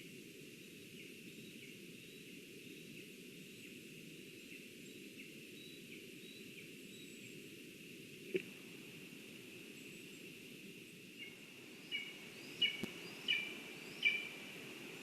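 Outdoor forest ambience with a steady hiss and faint, evenly repeated bird chirps, a single sharp knock partway through, then a series of five loud, sharp bird calls about a second apart near the end.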